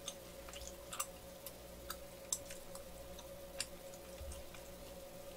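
Soft, scattered mouth clicks of chewing a chewy rice cake (manggae-tteok with red bean filling), over a faint steady hum.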